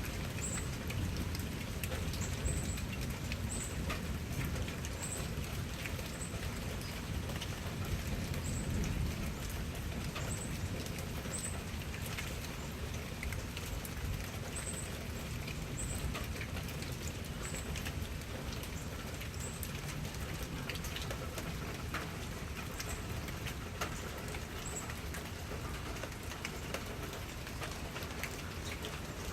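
Steady rain falling, with close drops pattering and ticking. A short, high chirp repeats every second or two through most of it and stops near the end.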